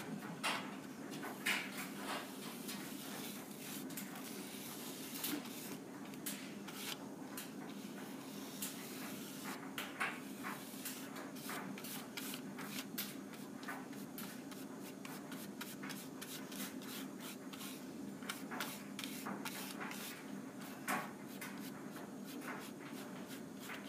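Clothes dryer running with a steady low hum, described as really loud, under frequent light clicks and taps from close-at-hand handling.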